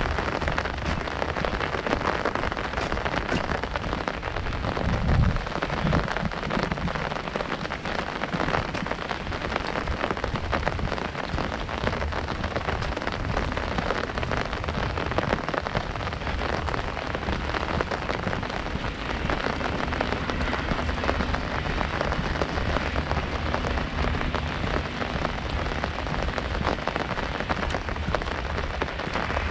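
Heavy rain drumming steadily on a large umbrella overhead, a dense patter of drops. A single low thump about five seconds in.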